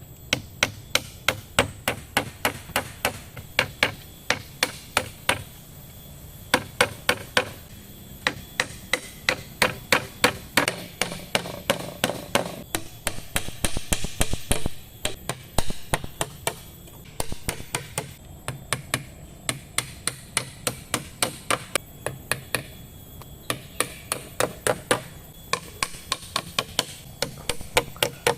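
Repeated blows of a hand tool striking wood, such as a machete chopping or a hammer pounding. The sharp strikes come at about three a second, in runs broken by short pauses.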